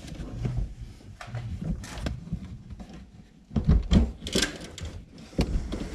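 Knocks, clunks and rustling from someone moving about inside a car cabin, with a run of louder thumps about three and a half seconds in.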